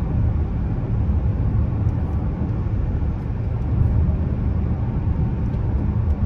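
Dodge Charger V6 cruising steadily, heard from inside the cabin: an even low engine drone with road noise from the tyres.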